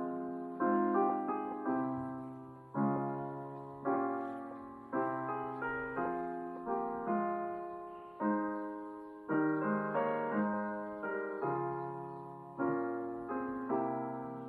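Slow, gentle piano music: soft chords struck about once a second, each left to ring and fade before the next.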